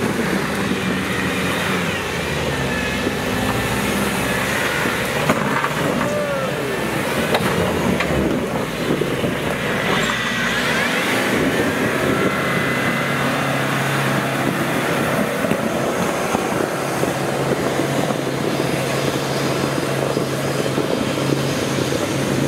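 Off-road 4x4's engine running steadily at low revs, its pitch shifting in small steps now and then.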